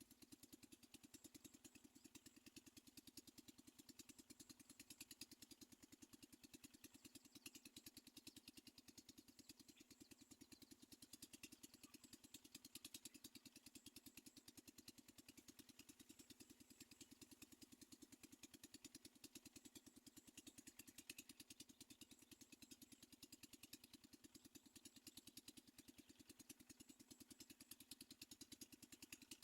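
Near silence: a faint, steady, rapidly pulsing buzz with a thin hiss above it.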